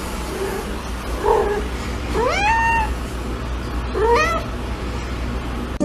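A cat meowing: a few faint calls, then two louder rising meows about two and four seconds in, over a steady low rumble.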